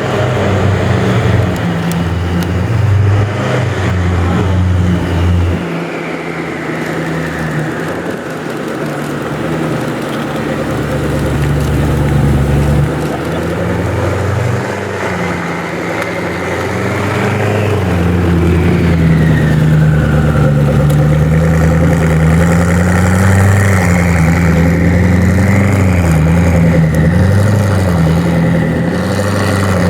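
Car engine running at idle with rises and falls in engine speed, getting louder and staying louder about two thirds of the way through.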